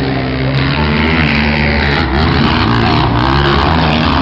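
Off-road racing vehicle engines running hard and revving, the pitch rising and falling, with a rougher, louder layer from about half a second in.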